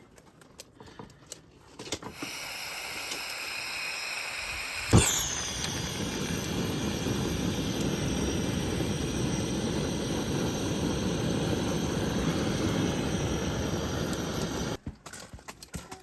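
Steady hissing with a few high whistling tones, then a sharp pop about five seconds in, after which a steady low rushing noise runs on until it cuts off abruptly near the end.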